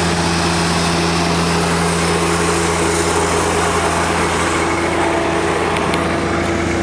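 John Deere tractor with snowblower running steadily: an even engine drone under a constant hiss.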